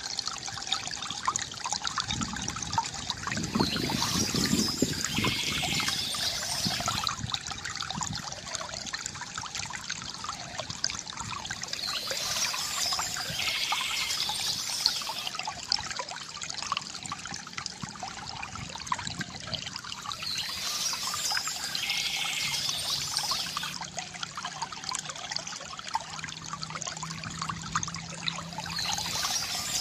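Water trickling and pouring steadily from a bamboo fountain spout. A brighter, higher sound rises over the water about every eight or nine seconds.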